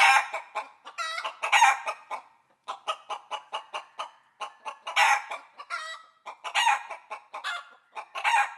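Chickens clucking, with a run of quick short clucks broken every second or two by louder drawn-out squawking calls.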